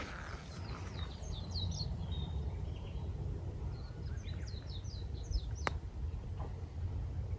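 Small birds chirping in two runs of short, quick, downward-sweeping notes over a steady low background rumble. A single sharp click comes a little past the middle.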